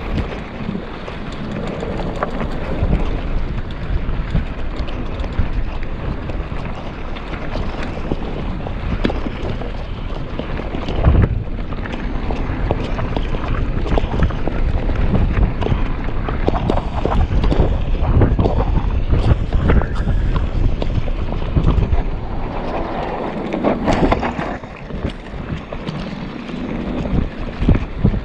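Wind buffeting the microphone while riding downhill: a continuous rumbling rush of noise that swells and dips in gusts.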